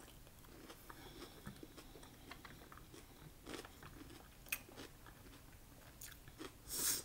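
Close mouth sounds of a person chewing cooked mussels: soft wet chewing and smacking with scattered small clicks, one sharper click about halfway, and a louder noisy burst near the end.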